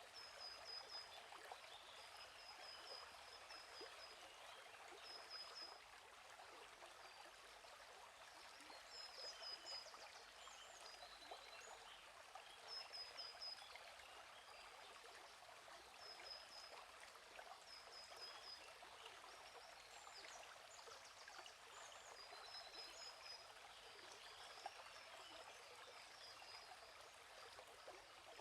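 Faint, steady flowing stream, with a small bird giving short bursts of high chirps every few seconds.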